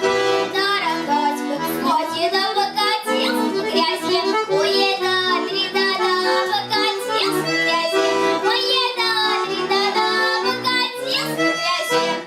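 Accordion playing a Russian folk dance tune (plyasovaya) with sustained chords and a melody over them, breaking off sharply at the final note near the end.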